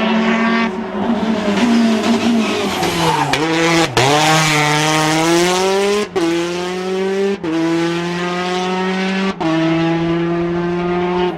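A WRC rally car's engine accelerating hard through the gears. The pitch climbs steadily between quick upshifts, and each upshift is a brief sharp cut in the sound, four in all.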